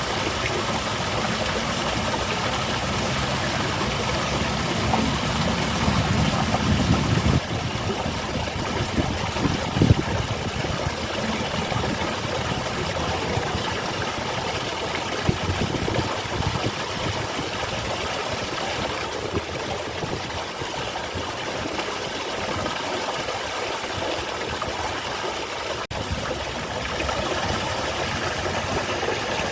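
Water of a small garden waterfall falling and splashing in a steady rush. A low rumble builds under it over the first seven seconds and cuts off abruptly.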